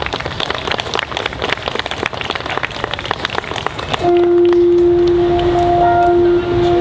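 Audience clapping, then about four seconds in a steady, unwavering held musical note starts and sustains, louder than the clapping.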